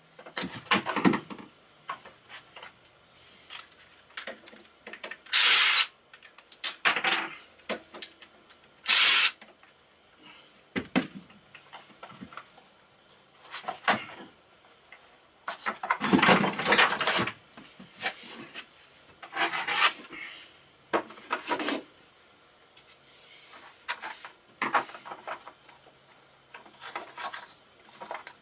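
Tool work on a motorcycle engine: irregular bursts of metal handling, scraping and rattling, with two short, loud bursts about five and nine seconds in.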